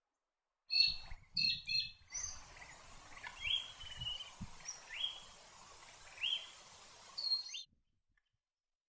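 White-throated honeyeater calling: three sharp, high calls in quick succession, then a series of short upward-sweeping notes about once a second over a faint background hiss.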